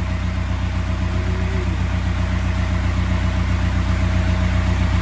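Sailboat's inboard diesel engine idling steadily while it drives the newly fitted alternator to charge the battery.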